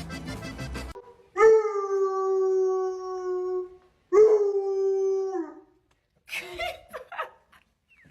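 Dog howling: two long howls held at a steady pitch, each dropping slightly as it ends, followed by a few short rough sounds. Music plays for the first second.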